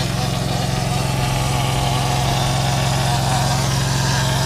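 Concrete pump's engine running steadily with a low, even hum while pumping concrete to the spray hose.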